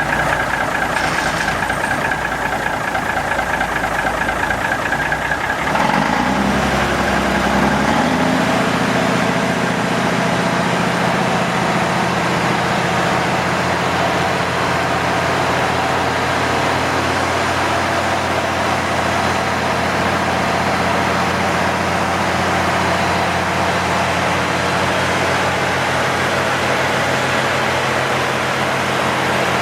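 Mack DM 600 dump truck's 300-horsepower diesel engine running. Its pitch rises about six seconds in, then it settles into a steady idle.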